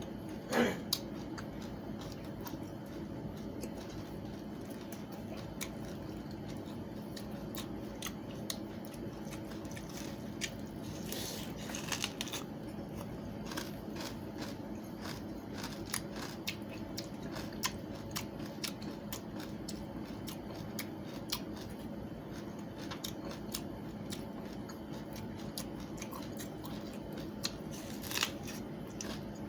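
Someone biting and chewing crisp watermelon rind, with many short crunches and clicks throughout and a denser run of them about halfway through.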